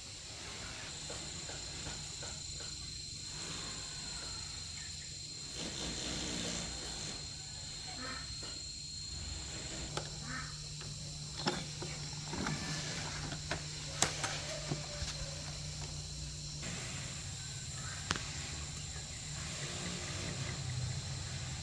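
Scattered small clicks and knocks, mostly in the second half, over a steady background of insects buzzing at a high pitch and a low hum.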